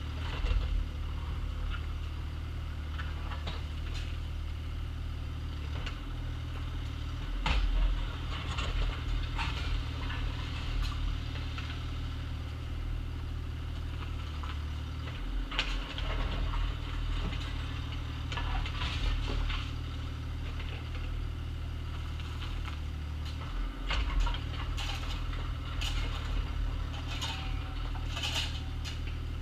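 Compact excavator's diesel engine running steadily while it digs, with scattered clanks and scrapes from the bucket working gravel and dirt.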